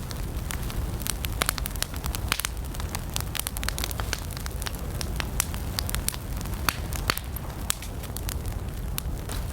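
Wood campfire burning with irregular sharp crackles and pops over a steady low rush of flames.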